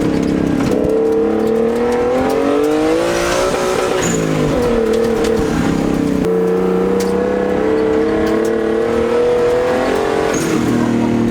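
Nissan RB20DET turbocharged straight-six in an off-road 240SX under hard acceleration: the revs climb, drop sharply about four seconds in as it shifts up, then climb again and drop once more near the end.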